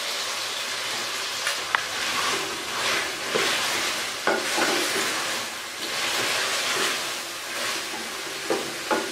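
Chicken pieces with ginger-garlic paste and ground green chillies frying in a metal pot, sizzling steadily. A wooden spatula stirs the pieces, so the sizzle swells and eases in waves, with a few light clicks of the spatula against the pot.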